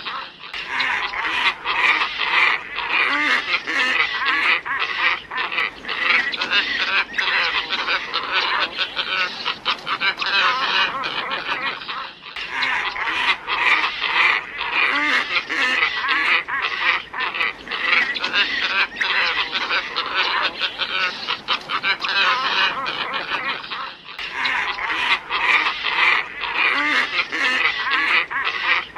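A flock of glossy ibises calling, a dense chorus of harsh overlapping croaks and honks. The recording is a loop that restarts about every 12 seconds with a brief dip.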